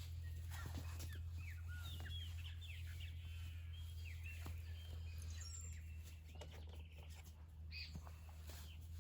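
Birds calling: a run of short chirps and quick rising and falling notes, thinning out after about six seconds, over a steady low hum.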